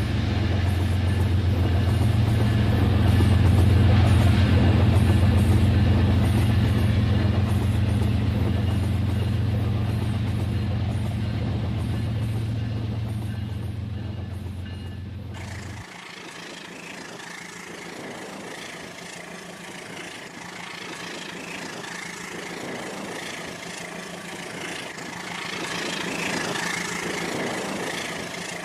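A RailKing model train running on its layout: a loud, steady low hum of motor and running noise. About halfway through it cuts off abruptly to a quieter, hissier running sound.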